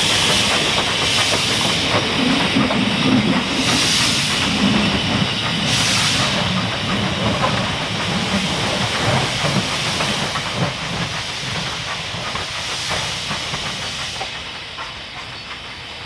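Steam locomotive hissing steam, with several louder bursts of exhaust, the sound growing fainter over the last few seconds.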